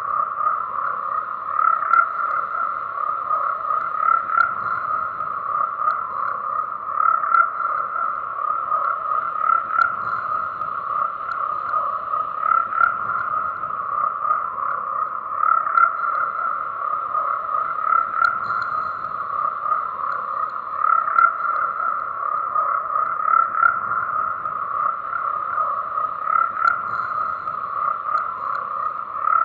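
A dense chorus of many frogs croaking continuously, with the calls overlapping into a steady mass and swelling a little every two to three seconds.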